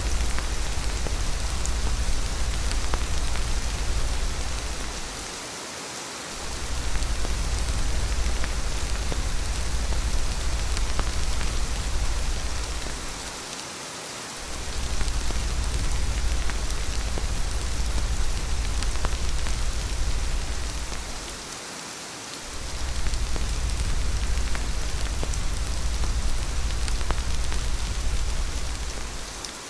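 Steady rain hissing on a surface, over a deep low rumble that fades out for a moment about every eight seconds.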